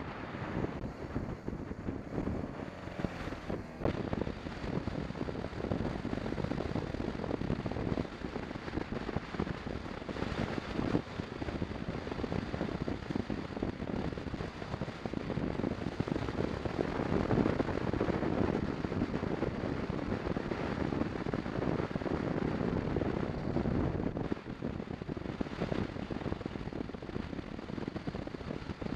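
Wind rushing over the microphone of a motorcycle under way, mixed with engine and road noise from a BMW 650 GS; it is a rough, unsteady noise that grows louder around the middle.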